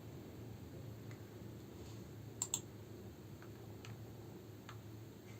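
A few faint, sharp clicks, like the buttons of a mouse, keyboard or remote being pressed, over a low steady hum. The clearest is a quick pair about two and a half seconds in.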